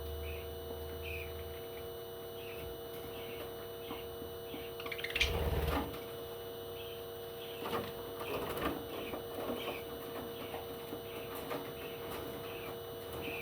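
Steady electrical hum with a faint high chirp repeating about twice a second. A louder, noisier burst comes about five seconds in, with a few shorter ones later.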